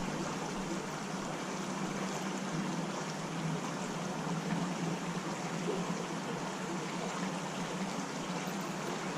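Creek water running steadily, an even rushing and trickling.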